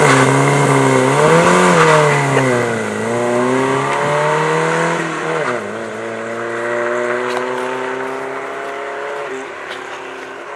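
Classic Mini's engine pulling away, the revs climbing and then dropping twice as it shifts up. It then holds a nearly steady note while it fades into the distance.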